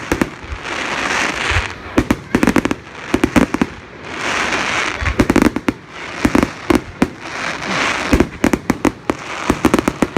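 Fireworks going off in quick succession: clusters of sharp bangs and crackles alternating with hissing whooshes, repeating every second or so.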